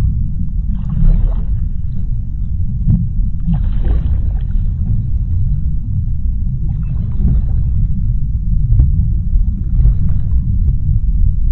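Underwater ocean ambience: a deep, steady rumble with a hazy wash of higher noise swelling in every two to three seconds.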